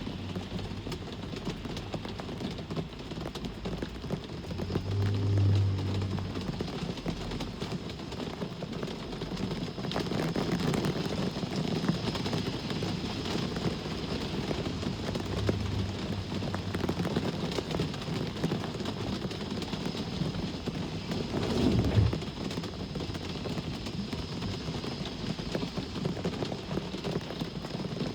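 Steady rain hiss with road traffic passing. Low vehicle rumbles swell past about five seconds in and again around fifteen seconds, and a short, louder rumble comes about two-thirds of the way through.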